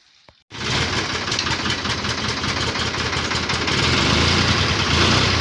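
Ford 3000 tractor engine cold-started, running after repeated failed attempts to start it. It comes in abruptly about half a second in, after near silence, and runs steadily, getting a little louder about four seconds in.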